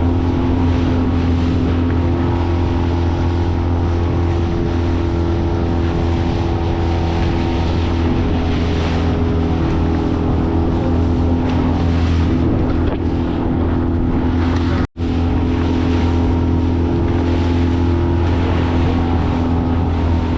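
Honda BF20 four-stroke outboard motor running steadily at speed, driving an inflatable boat through choppy sea, with the rush of water and wind. The sound cuts out for a split second about fifteen seconds in.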